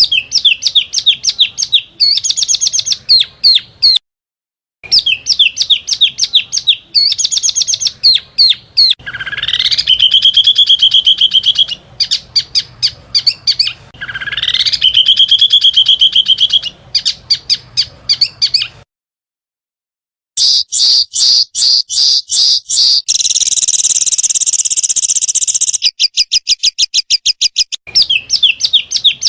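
Small songbirds calling in rapid, sharp chirp series, the fast 'tembakan' bursts of bird-training recordings. Two whistles rise and then hold, and near the end there is a dense buzzy trill. The recording breaks off into silence twice, as in an edited loop.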